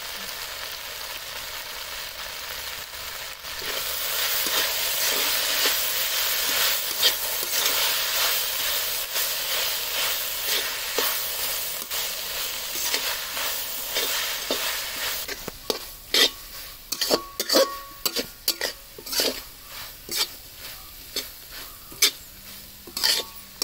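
Shredded vegetables sizzling as they stir-fry in a steel kadai, the frying growing louder a few seconds in. From about two-thirds through, a spatula scrapes and taps against the pan in quick, uneven strokes as the stuffing is stirred.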